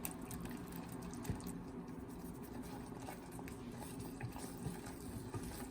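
A pan of noodles in a flour-thickened milk-and-butter sauce cooking on the heat: soft, steady bubbling with a few faint clicks.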